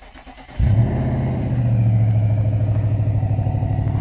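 Infiniti FX50's 5.0-litre V8 starting up: it catches about half a second in with a brief flare of revs, then settles into a steady idle. The exhaust has freshly replaced flex pipes, so it no longer leaks.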